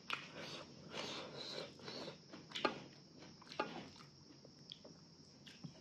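Close-miked chewing and wet mouth sounds of someone eating, soft in the first couple of seconds, with a few short sharp smacks later on.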